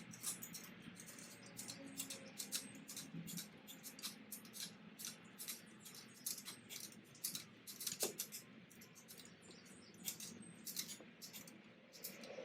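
Faint, irregular small clicks and ticks of a hand tool working the turbocharger's band clamp as it is tightened.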